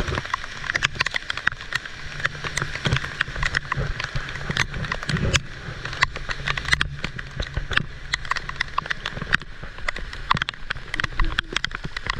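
Heavy rain falling, with many sharp, irregular drop hits close to the microphone over a steady hiss of rain, and a low steady hum underneath.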